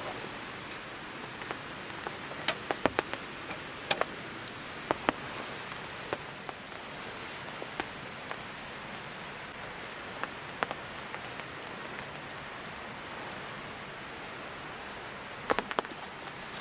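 Food sizzling on a hot pan over a campfire: a steady hiss with scattered sharp pops and spatters, bunched a few seconds in and again near the end.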